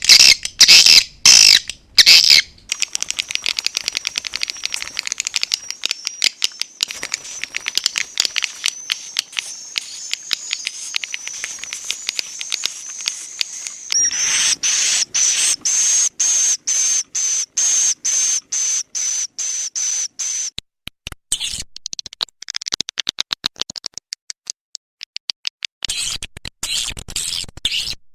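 Swiftlet calling sound, the lure recording played to draw swiftlets into a nesting house: rapid, high-pitched clicking chatter over a continuous buzzing trill. The chatter grows louder about halfway through, thins out about three-quarters through, then comes back strongly near the end.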